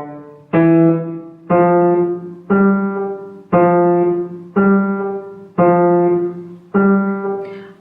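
Piano playing slow, detached notes about one a second, each struck and left to fade before the next: a non-legato accompaniment at an unhurried walking step.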